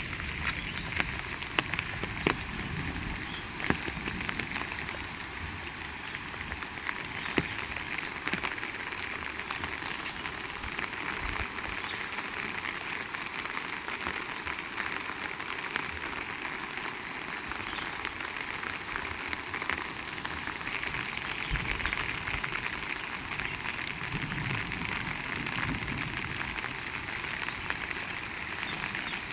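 Heavy rain falling steadily, with scattered sharp ticks of drops striking close by, most of them in the first few seconds.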